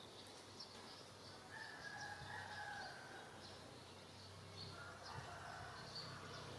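Faint bird calls: a long, drawn-out call about a second and a half in and another near the end, over repeated short high chirps, with a low hum growing louder near the end.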